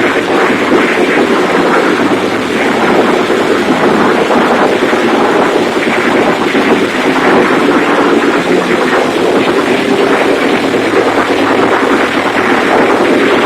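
Large diesel engine converted to spark ignition and running on wood gas, running loud and steady at a constant speed.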